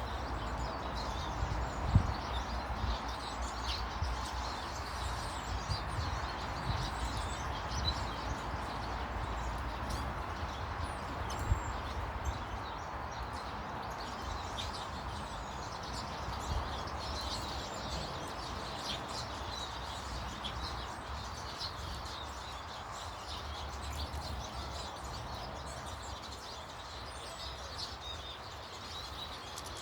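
Small garden birds chirping in short, scattered calls throughout, over a steady background hiss and a low rumble, with one sharp knock about two seconds in.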